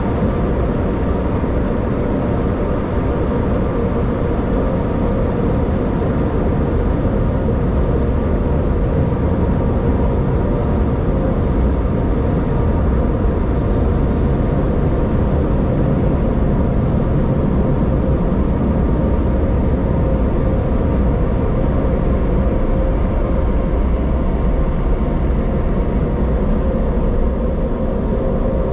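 Steady, loud mechanical running with a constant hum, unchanging throughout.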